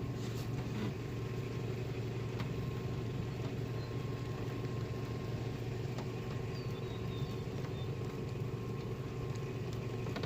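Car engine idling steadily: an even, low hum that does not change.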